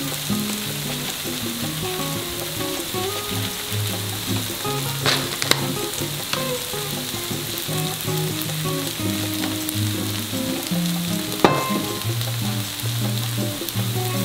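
Duck bulgogi fried rice sizzling steadily on a hot griddle pan, with a few sharp clicks, over soft background music.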